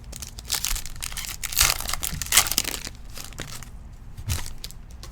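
A trading card pack's wrapper being torn open and crinkled in the hands, in a run of rustling bursts, with a short click near the end.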